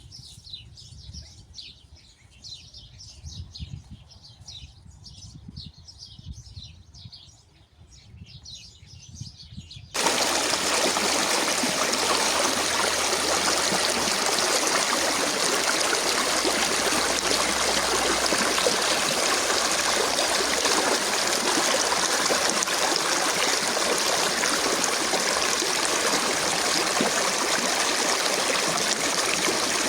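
Birds chirping rapidly, with faint low knocks beneath. About ten seconds in, the sound switches abruptly to the loud, steady rush of a flowing stream.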